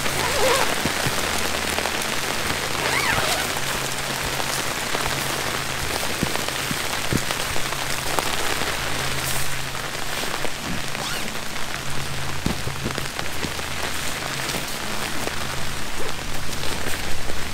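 Steady rain falling, with individual drops striking close by.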